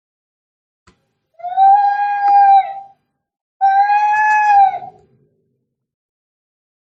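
Angry cat yowling in a fight: two long, drawn-out yowls about a second and a half each, steady in pitch, with a short pause between them.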